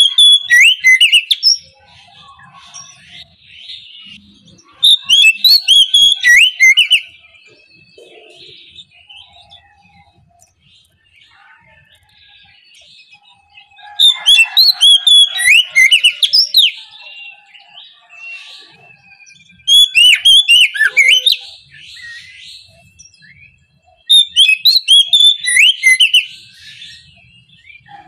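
Oriental magpie-robin singing loud phrases of fast, varied whistles and chattering notes, in five bursts a few seconds apart with quieter gaps between them.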